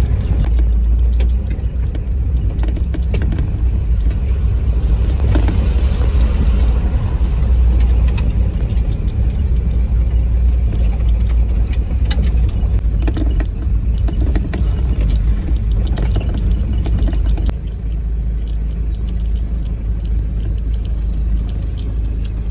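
Off-road vehicle driving over rough ground: a steady low rumble with scattered knocks and rattles, easing a little about three-quarters of the way through.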